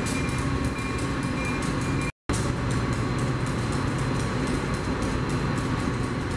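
A Union Pacific GP-series diesel locomotive idling with a steady hum. After an abrupt cut about two seconds in, an elevated rapid-transit train rolls over a steel girder structure with a steady rumble and rapid wheel clatter.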